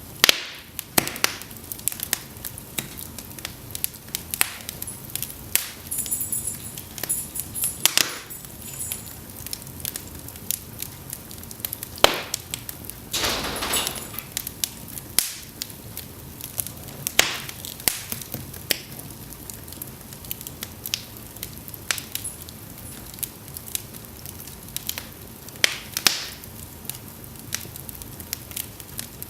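Cedar logs burning in an open fireplace, snapping and crackling with irregular sharp pops, a few of them loud. About halfway through, a short hissing sputter lasts about a second.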